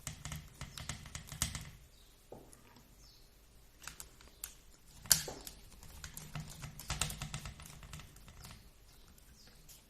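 Small sharp clicks and taps of a hand screwdriver and hard plastic parts being handled while screws are backed out of an RC car's chassis, with a cluster of clicks at the start, one louder click about five seconds in, and more around seven seconds.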